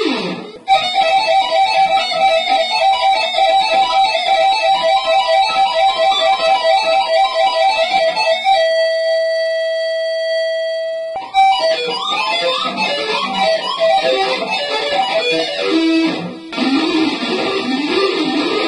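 Distorted electric guitar playing fast shred lines: rapidly repeated notes for about eight seconds, then one long held note for nearly three seconds, then fast runs again.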